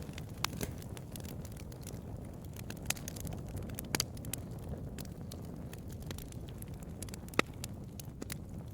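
Bonfire of burning wood crackling, with many small sharp pops and snaps over a steady low rumble of flame. A few louder pops stand out, one about halfway through and the loudest near the end.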